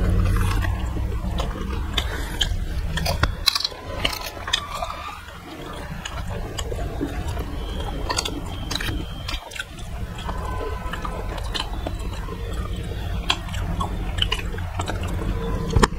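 Close-up chewing and biting of food by two people eating with their hands, with many sharp crunchy clicks scattered throughout, over a steady low hum.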